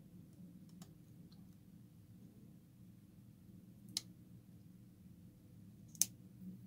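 Two sharp clicks about two seconds apart, with a fainter tick near the start, over a low steady hum: small hard objects tapping during hand work on the phone.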